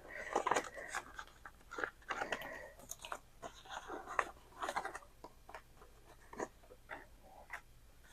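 Paper bills and envelopes being handled, crinkling and rustling in short, irregular bursts.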